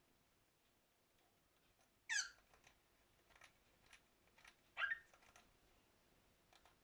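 Cockatiel giving two short, loud chirps, the first sliding downward about two seconds in and the second a few seconds later, with softer chirps and clicks between them.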